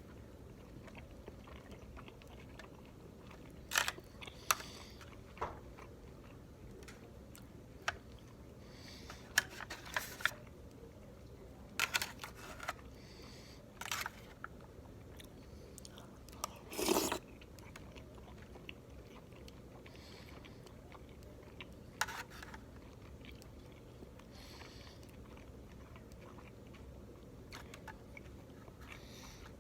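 Close-up eating sounds of someone chewing chicken momo dumplings: scattered wet mouth clicks and smacks, with a longer, louder burst about halfway through.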